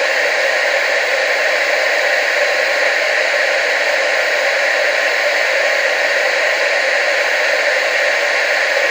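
TV static: a steady hiss of noise, even and unchanging, with little bass.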